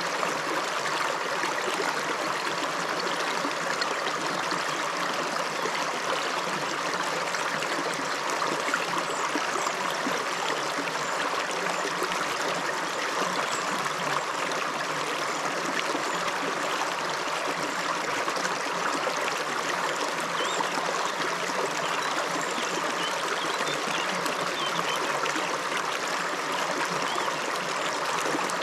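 Shallow upland river running over stones, a steady rushing and babbling of water.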